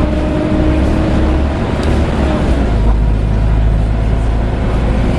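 Volvo B7TL double-decker bus heard from inside: its six-cylinder diesel engine running under way, with the steady, loud hoovering drone of the engine's cooling fan.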